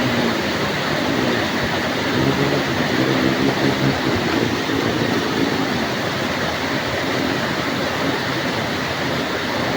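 Heavy rain pouring steadily, a dense even hiss, with a faint low drone that swells and fades a few times underneath.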